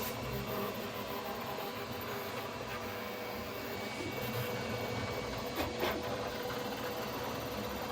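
3D printer running, a steady whir of motors and fans with a faint steady whine. Two short sounds come close together about two-thirds of the way through.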